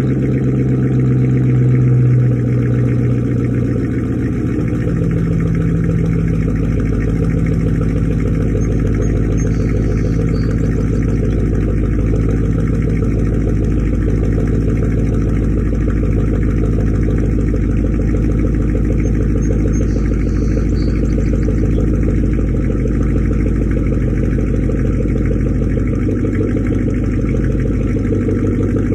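2006 Dodge Charger's 5.7 Hemi V8 idling through Magnaflow high-flow cats and straight pipes, with no mufflers, after a cold start. The idle is a little louder for the first few seconds, then drops slightly and holds steady.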